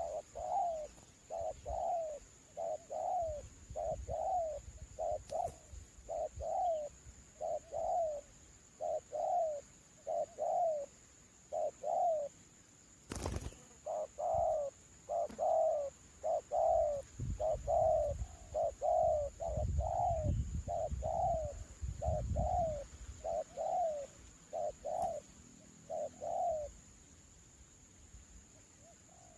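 Spotted dove cooing, a long run of evenly spaced coos that pauses briefly in the middle and stops a few seconds before the end. Wind rumbles on the microphone throughout, and there is a single sharp knock about 13 seconds in.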